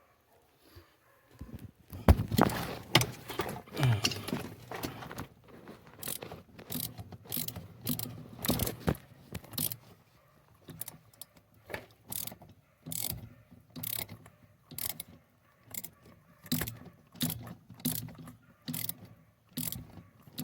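Socket ratchet wrench being worked in steady strokes, its pawl clicking about one and a half times a second, as bolts on a steering column are tightened. A few seconds of tool and metal-part clatter come first.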